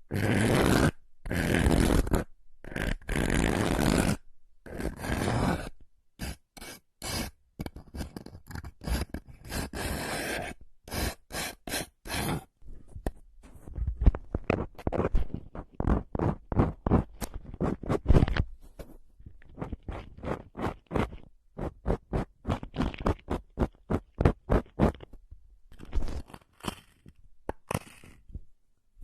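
Close-miked scraping: a few long strokes of about a second each, then many short, quick scratches and ticks at an uneven pace.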